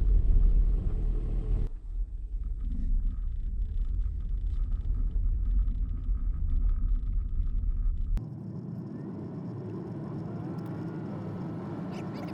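Road noise of a Prius driving a logging road: a low, steady rumble of tyres and car body. About eight seconds in it cuts off suddenly and gives way to a quieter, even rumble.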